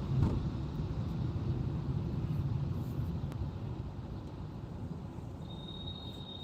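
Car driving, a steady low road rumble that slowly fades. A thin, steady, high-pitched trill starts near the end.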